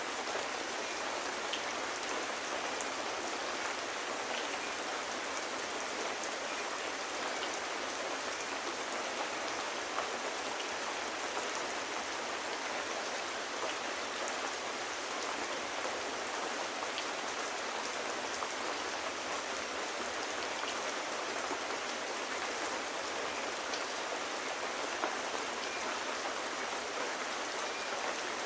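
Steady rain falling, an even hiss with scattered light drop ticks and little low end.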